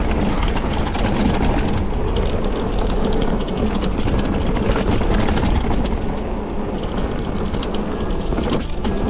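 Electric mountain bike running fast down a rough, wet dirt trail: a steady rattle of tyres, chain and frame over the bumps with a low rushing rumble, typical of wind on the camera microphone.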